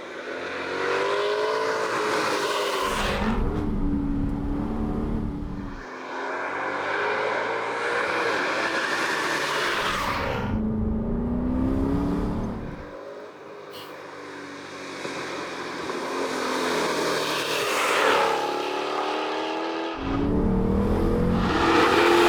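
Jaguar XKR-S's 5-litre supercharged V8 at full throttle, its pitch rising again and again as it revs up through the gears, in several short passes that cut abruptly from one to the next.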